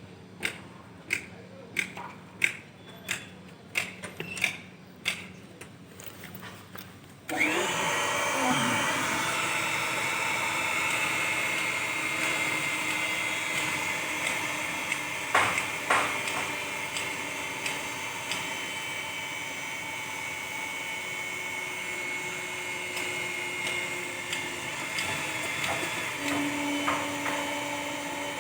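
Sharp knocks, about two a second, then an electric power tool starts suddenly about seven seconds in and runs steadily with a high whine until it stops near the end.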